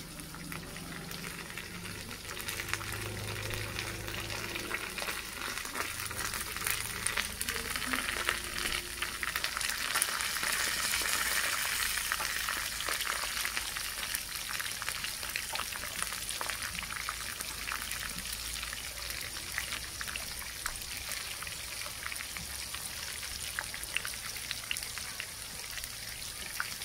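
Köfte (meatballs) frying in hot oil in a pan: a steady sizzle with fine crackles, swelling a little about ten seconds in.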